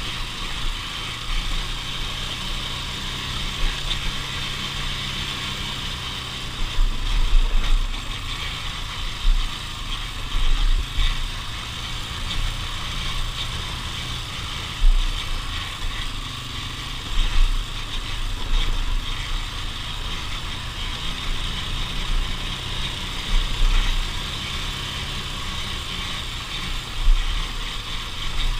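Off-road vehicle running along a trail: a steady engine hum under continuous rattling and clicking, with repeated low thumps.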